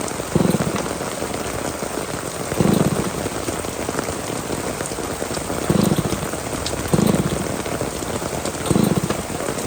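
Heavy rain falling steadily, with about five short low rumbling bursts spread through it.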